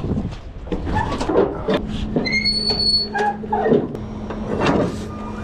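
Flatbed strap winches being cranked tight with a winch bar: a run of ratchet clicks and metal knocks, with short high squeaks about two to three seconds in, over a steady low hum.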